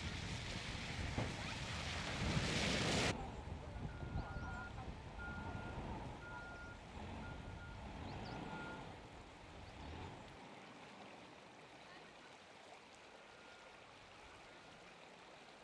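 A vehicle's reversing alarm beeping at a steady pitch, a little more than once a second, over a low engine rumble that fades away after about ten seconds. It is preceded by a loud rush of noise that cuts off suddenly about three seconds in.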